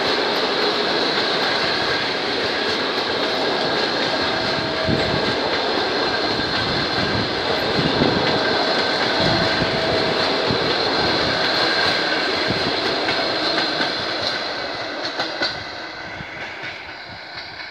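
Passenger train coaches rolling past close by, a steady rush of wheels running on the rails, fading away from about fourteen seconds in as the last coach passes and the train recedes.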